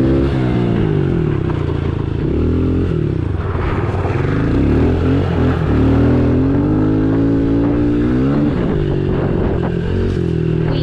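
110cc dirt bike engine running under load while being ridden, its pitch climbing and dropping back several times as the throttle is opened and eased off.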